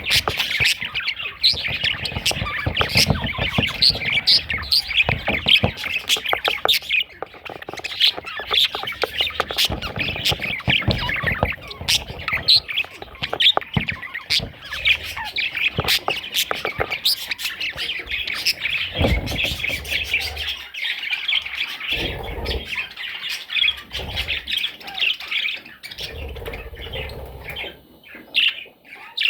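Budgerigar chattering and warbling without a break: a fast, busy stream of squawks and chirps that thins out near the end, with a few dull thumps.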